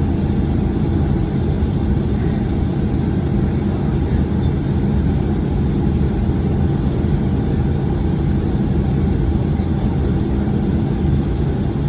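Steady low rumble inside the cabin of a Boeing 737-900ER on the ground with its CFM56-7B engines at idle, unchanging throughout.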